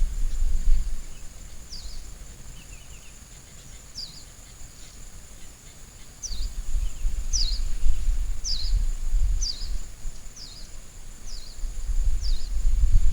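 A bird repeats a short falling chirp about once a second over a steady high insect buzz. A low rumble comes and goes underneath, loudest near the start and again near the end.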